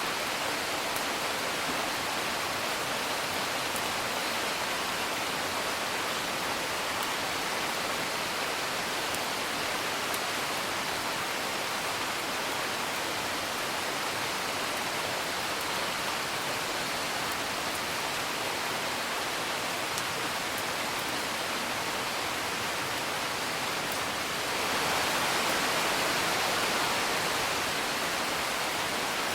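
Steady rain hiss with faint, scattered crackles from a wood fire. About twenty-five seconds in, the rain briefly swells louder, then eases back.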